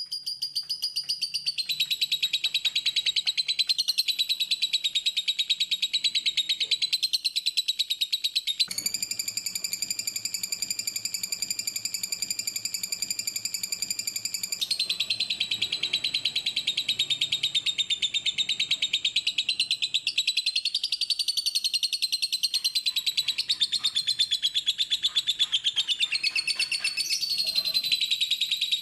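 Lovebird's long, rapid, unbroken chattering song: a dense stream of fast, high notes. The background changes abruptly about a third of the way in and again near the middle, as at edit joins.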